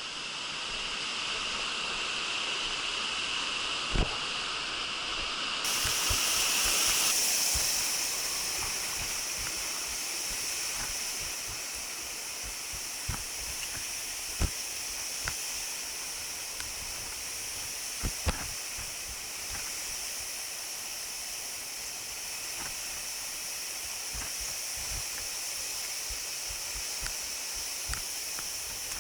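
Waterfall and stream water rushing steadily, turning hissier about six seconds in. Scattered short knocks and clicks sound over it, the loudest about 4, 14 and 18 seconds in.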